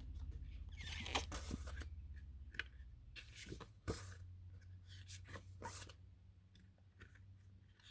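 Cards and their plastic and paper packaging being handled: scattered soft rustles and light clicks, over a low hum that fades away after the first couple of seconds.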